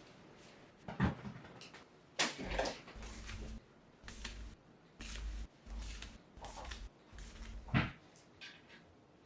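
Irregular handling noises: a few sharp knocks and clicks, with stretches of rustling and rumbling as objects are moved about.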